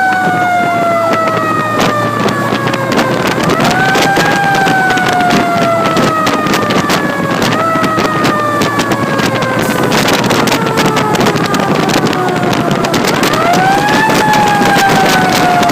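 Fire engine siren wailing: the tone rises quickly, then slowly falls in pitch, starting up again three times.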